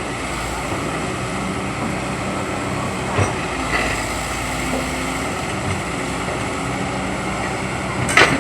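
Excavator engine running steadily, with a short knock about three seconds in and a louder sharp clank near the end.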